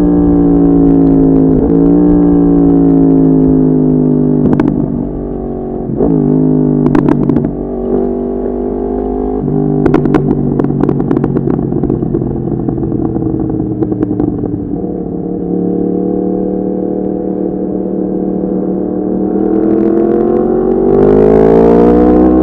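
Yamaha MT-10's crossplane inline-four running through an Akrapovic exhaust. The engine note falls slowly as the bike rolls off, with a few short sharp crackles in the first half, then rises again near the end as it accelerates.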